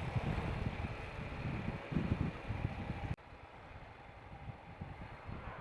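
Royal Enfield Himalayan motorcycle riding, its engine rumbling under wind noise on the microphone; the sound drops abruptly to a quieter level about three seconds in.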